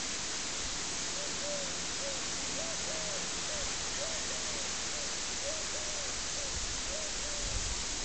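A bird calling a run of short, low hooting notes, each rising and falling, two or three a second, from about a second in until near the end, over a steady rain-like hiss.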